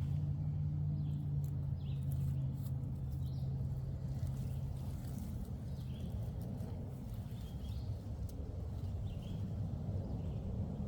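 Woodland ambience: a steady low hum that fades about halfway through, over a low rumble, with faint bird chirps and a few light clicks or rustles.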